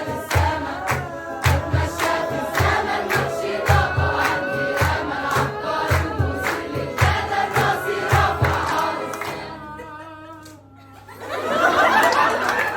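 Choir singing a song in Arabic over a low, regular drum beat. The beat drops out and the voices hold a final note with vibrato that fades about ten seconds in. Then the audience breaks into applause and cheering.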